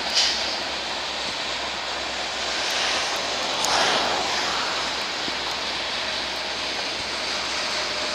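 Freight train covered hopper cars rolling past, a steady rumble of steel wheels on rail, with a short sharp high sound just after the start and a brief swell about four seconds in.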